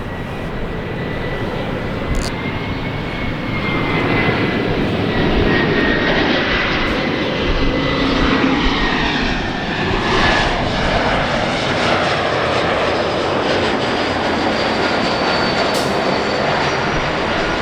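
Airliner passing close by. The rush of its engines builds from about four seconds in and stays loud, with a thin high whine that sinks slightly in pitch.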